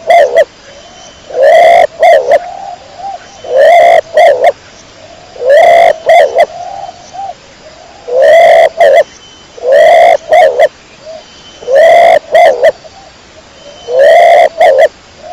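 Domestic pigeon cooing close up, repeating a phrase about every two seconds: a rising coo followed by two short notes, seven times.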